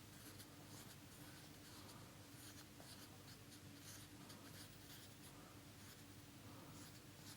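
Faint, short swishes of a Chinese ink brush stroking across paper as flower petals are outlined, in an irregular series over a low steady hum.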